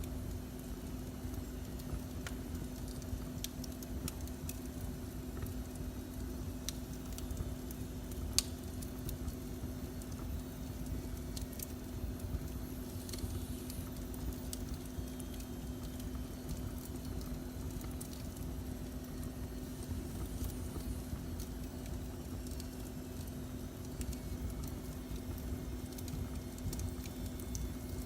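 Wood fire burning in a fireplace, crackling with scattered small pops and one sharper pop about eight seconds in, over a steady low rumble and hum.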